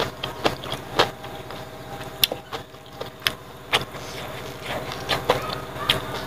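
Close-up chewing and lip-smacking of a person eating boiled pig trotter with rice by hand: irregular sharp smacks and clicks, about one every half second to second.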